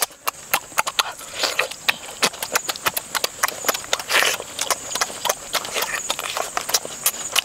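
Wet chewing and lip-smacking while biting into a charred roasted pig kidney: a rapid, irregular run of small mouth clicks, with one louder smack about four seconds in.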